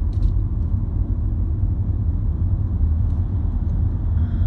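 Steady low rumble of a car heard from inside the cabin, with a couple of faint clicks just after the start.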